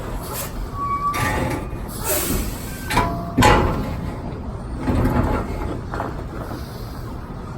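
Semi truck's engine running with a steady low rumble, broken by a series of short clunks and noise bursts, the loudest about three and a half seconds in.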